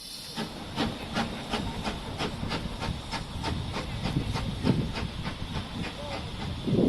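Steam train running: a steady hiss with a regular beat about three times a second, starting abruptly.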